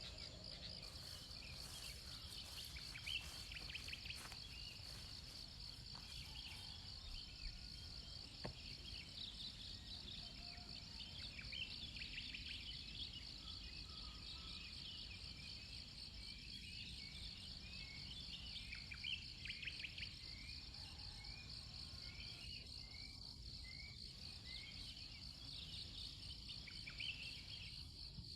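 Faint, steady insect chorus with a fast pulsing high trill, over a low background hiss. Scattered short bird chirps come and go, most often in the middle and towards the end.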